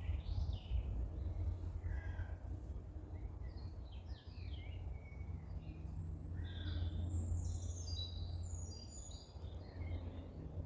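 Birds calling, with a run of short chirps and quick falling notes throughout, over a steady low rumble.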